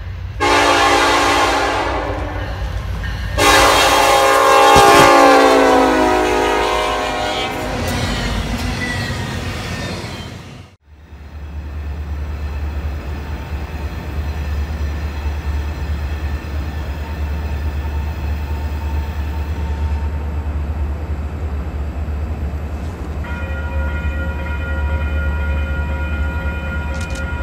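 Diesel freight locomotive horn blowing a short blast, then a long one that fades away. After a cut, the steady deep rumble of Norfolk Southern diesel locomotives on an approaching freight train, with a steady multi-note horn chord coming in a few seconds before the end.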